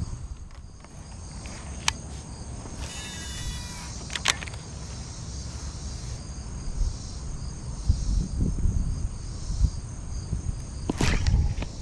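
Steady high chirring insect chorus over a low rumble, with a couple of sharp clicks in the first few seconds.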